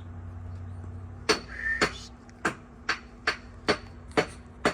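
A run of sharp taps or knocks, about two a second, starting about a second in, with a brief high chirp among the first ones.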